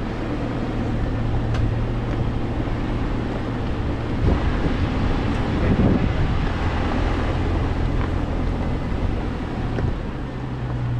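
Toyota FJ Cruiser's 4.0-litre V6 driving along a rough gravel track, a steady low engine drone under road and wind noise on the outside-mounted microphone, with a louder rumble about halfway through.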